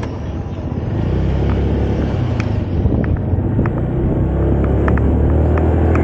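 Low, steady engine and road rumble of a Moda Moca 110 scooter on the move, growing a little louder about a second in, with several short sharp high sounds scattered through the second half.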